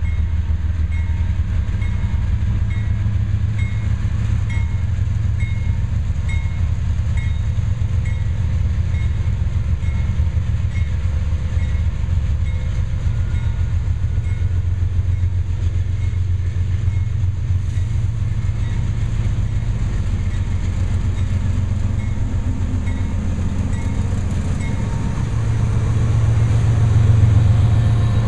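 Diesel freight locomotives rumbling as they approach and pass through a railroad grade crossing, the engine drone swelling near the end as the lead units go by. The crossing warning bell rings about twice a second over the rumble and stops shortly before the end.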